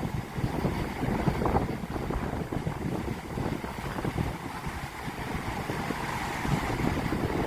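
Sea waves washing and breaking, with wind buffeting the microphone as a steady low rumble.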